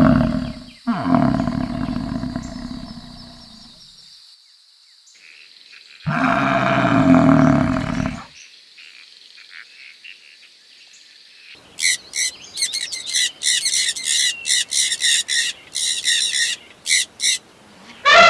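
Animal calls: a loud, low call fading out over the first few seconds, a second low call a few seconds later, then a small bird chirping in a quick run of short, high notes over the last six seconds.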